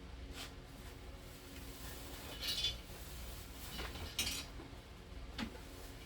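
1/24 scale slot cars running on the track with a faint steady hum, broken by four sharp clattering knocks of hard plastic and metal, the loudest two about halfway through.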